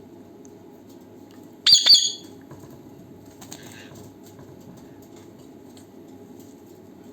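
Young parrot flapping its wings with a short, loud, harsh call about two seconds in, over a steady low background noise.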